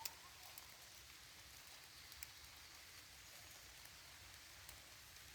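Faint steady rain falling, with a few individual drops ticking sharply, one right at the start and another about two seconds in.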